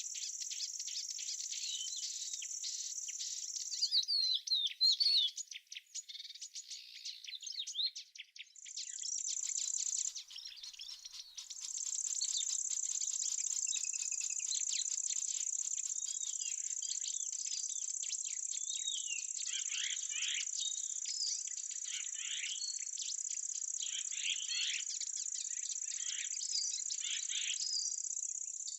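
Insects trilling in one steady, high-pitched band that breaks off twice in the first twelve seconds and then runs on, with small birds chirping and twittering throughout.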